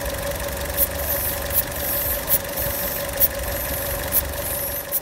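Car engine idling steadily, with a combustion-leak tester fitted on the radiator filler neck. The tester's rubber bulb is squeezed over and over, giving a short sharp hiss about every second as air is drawn from the cooling system through the test fluid.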